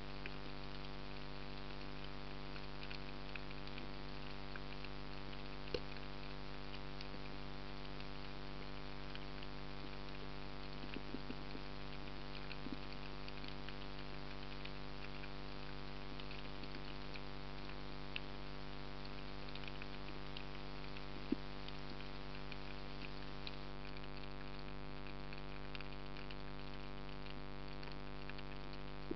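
Underwater ambience: a steady fine crackle over a constant hum, with a couple of sharper clicks.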